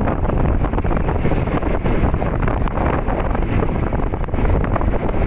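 Wind buffeting the phone's microphone: a steady, loud rumbling rush with no distinct events.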